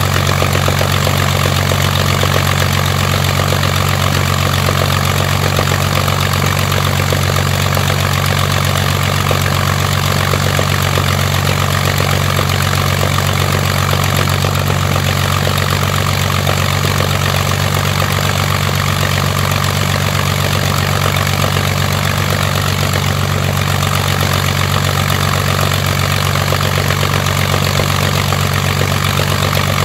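Rolls-Royce Merlin Mk500 V12 aero engine running steadily at an unchanging low speed.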